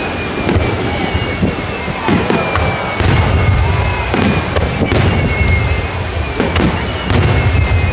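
Aerial fireworks bursting: repeated sharp bangs and cracks over a deep rumbling boom that grows heavier about three seconds in.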